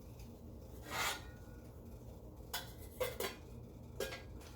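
Kitchen pots and utensils being handled: a brief scrape about a second in, then four light clinks of metal on metal.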